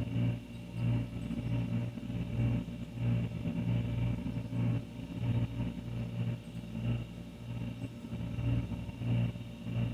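Older refrigerator running: a steady low electrical hum that swells and fades in an uneven pulse about once or twice a second.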